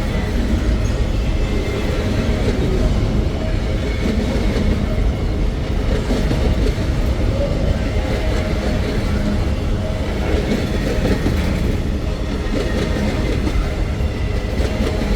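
Freight train rolling past, a steady loud rumble of wagons on the rails.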